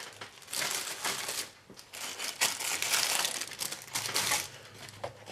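Plastic packaging crinkling in two bursts as the bagged parts of a plastic model kit are lifted out of the box and set aside.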